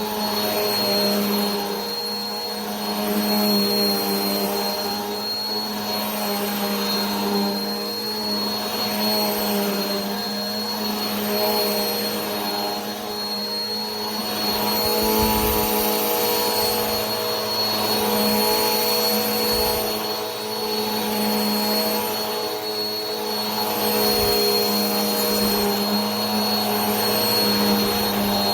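Vacuum cleaner running continuously: a steady motor hum with a high whine over rushing air, swelling and easing slightly every couple of seconds.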